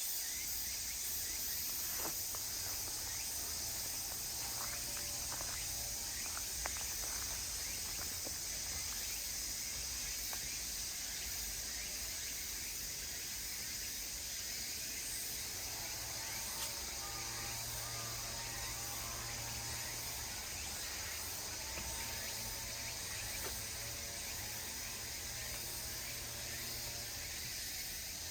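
Outdoor park ambience: a steady, high, even chorus of insects over a low background rumble, with faint tonal calls coming and going in the middle range, mostly in the second half.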